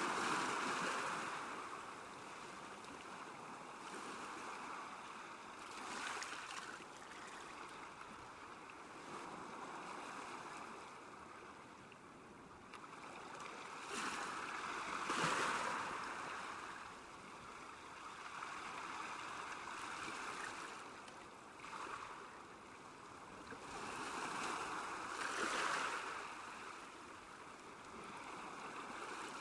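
Small waves lapping and splashing at a lake shore, the water noise swelling louder every several seconds and easing back in between.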